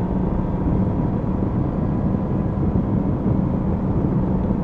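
Yamaha MT-10SP's crossplane inline-four engine running at a steady cruise, its note holding at one pitch, under heavy wind and road rush on the rider's helmet microphone.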